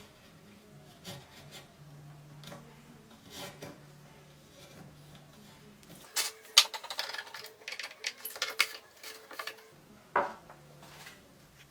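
Hand work on wood: scattered light knocks and rubbing, then a few seconds of dense scraping and clicking starting about six seconds in, and one sharp knock near the end.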